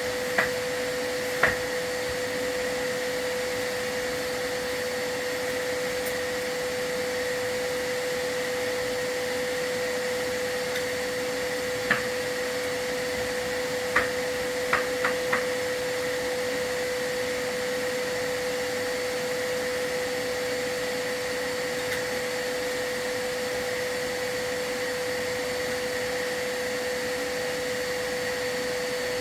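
Vacuum running steadily with a constant whine, the kind used to draw off soot during a chimney sweep. A few sharp knocks come through, one early, one near the middle and a quick group of three a little after.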